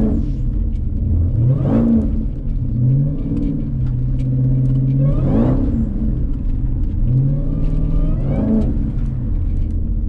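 Jeep Grand Cherokee Trackhawk's supercharged 6.2-litre V8, tuned to about 1000 hp, running at low speed, with three short throttle blips where the engine note climbs and drops back: about two seconds in, halfway through, and near the end.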